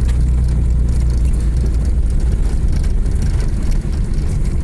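Steady low rumble of a moving vehicle: engine and road noise while driving.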